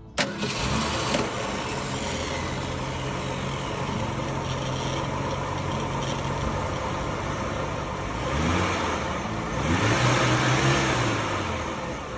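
Ford 289 V8 engine of a 1966 Mustang idling steadily, then blipped twice, about 8 and 10 seconds in, with the pitch rising and falling back each time.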